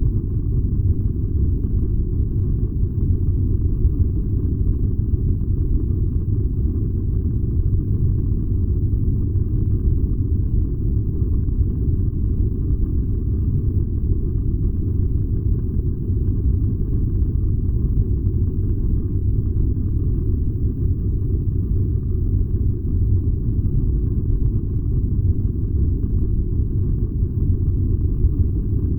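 Furnace burning with a steady, unbroken low rumble.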